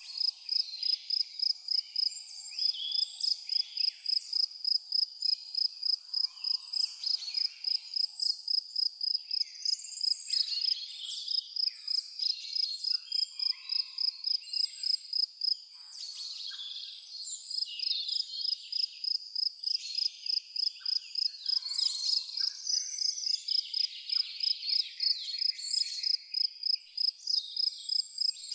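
Cricket chirping in a steady high-pitched pulse, about three chirps a second, breaking off briefly about halfway through, over a chorus of varied songbird calls and chirps.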